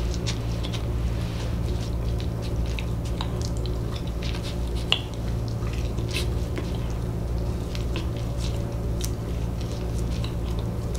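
Wet chewing and lip-smacking on a mouthful of rotisserie chicken: a run of small, wet mouth clicks over a steady low hum, with one sharper click about five seconds in.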